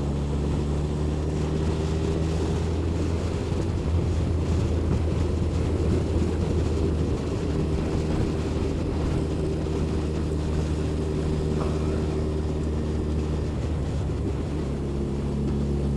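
Vehicle engine running at a steady cruising speed with road and wind noise, heard from aboard the moving vehicle; its pitch holds nearly constant.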